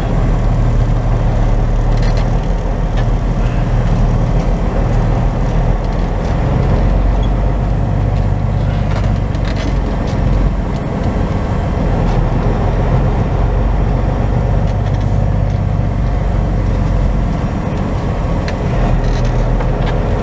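Semi truck's diesel engine running steadily, heard from inside the cab as a low hum that swells and eases slightly.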